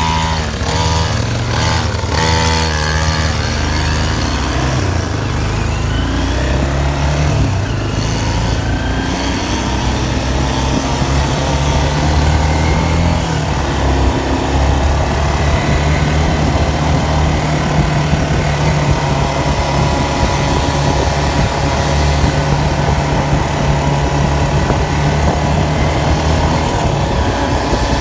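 Small 50cc dirt bike engine running under way. Its pitch shifts up and down with the throttle through the first half, then holds fairly steady.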